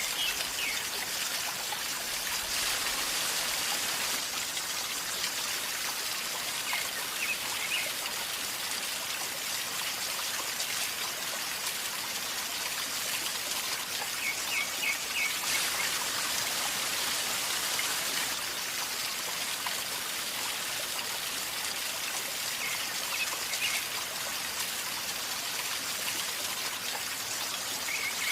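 River flowing calmly with a steady gurgling and trickling of water. Short chirps from a bird come every several seconds.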